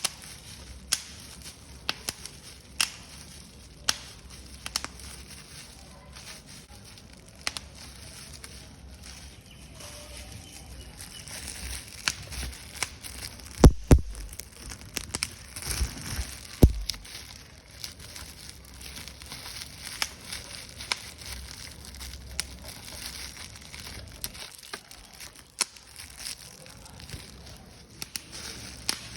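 Paper being crumpled and crushed, giving irregular sharp crackles and crinkles. The crackling grows denser in the middle, with a few louder pops, then thins out again.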